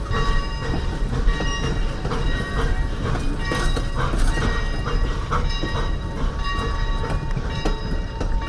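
Leviathan #63 replica steam locomotive and train running, a steady low rumble with short, repeated metallic ringing tones over it.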